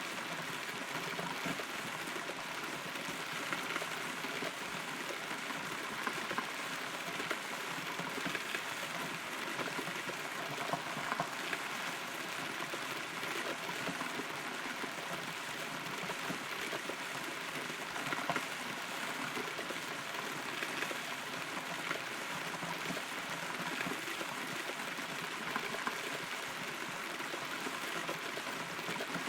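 Rain heard from inside a hollow rotten tree trunk: a steady patter with scattered louder drips.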